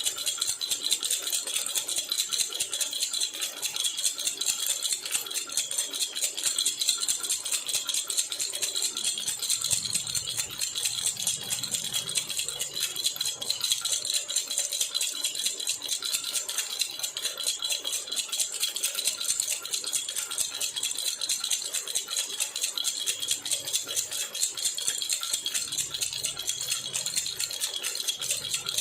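Jhunjhuna baby rattle shaken without a break, a dense, even stream of bright metallic jingling.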